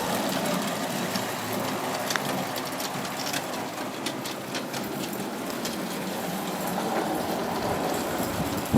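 A 16mm-scale live-steam model locomotive running, a steady hiss of steam and exhaust with scattered sharp clicks, most of them from about two to five seconds in.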